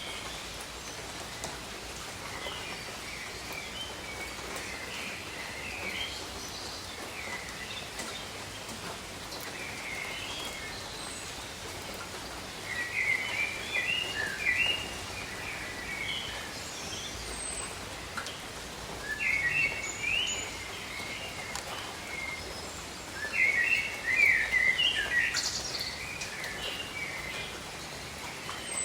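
Steady rain falling over tropical forest, with birds singing in bursts of quick chirpy phrases. The song grows louder about halfway through and again near the end.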